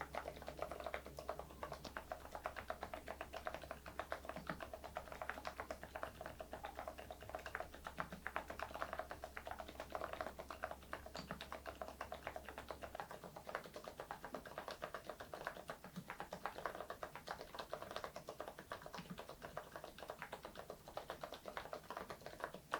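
Continuous fast typing on a mechanical keyboard with thick PBT Cherry-profile keycaps, a dense run of keystroke clacks that stops abruptly at the end.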